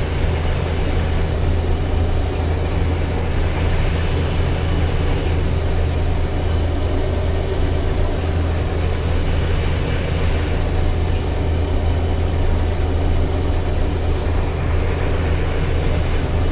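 Combine harvester running steadily while harvesting soybeans: a constant low engine drone with a high hiss over it that swells and fades a few times.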